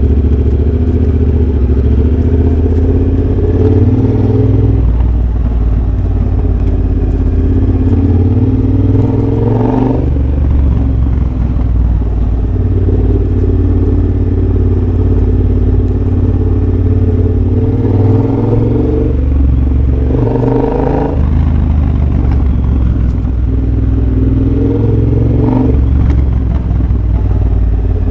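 2023 Triumph Bobber's parallel-twin engine through a de-catted X-pipe and Motone shorty exhaust, accelerating on the road. The exhaust note climbs steadily and then drops sharply at each upshift, about ten, twenty and twenty-five seconds in.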